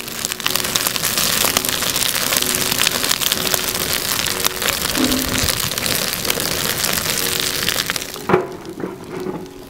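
Wood fire in a fire pit crackling and hissing, with dense snaps and pops; it drops away about eight seconds in, leaving a few knocks. Soft background music plays underneath.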